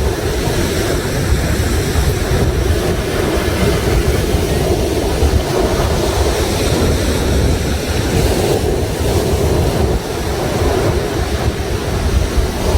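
Sea surf washing ashore in a steady, loud rush, with wind rumbling on the microphone.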